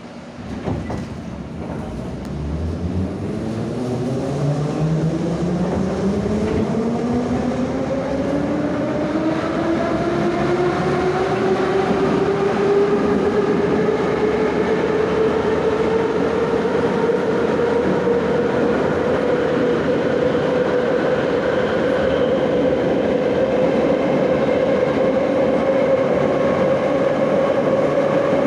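Moscow Metro 81-717/714 'Nomernoy' subway train accelerating: after a jolt, its traction motors and gears give a whine that rises steadily in pitch for about twelve seconds and then holds steady at running speed, over the rumble of the wheels.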